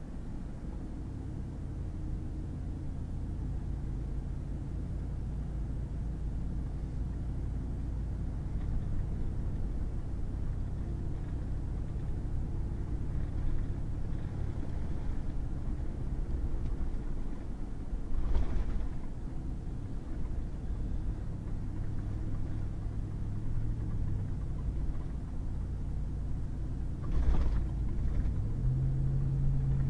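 Pickup truck driving on a muddy gravel road: steady low engine drone and road rumble, with the engine note changing a few times and rising near the end. Two short knocks, about two-thirds of the way through and again near the end.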